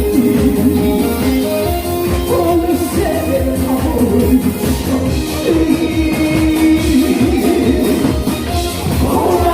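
A singer performing a song over accompanying music with a steady beat.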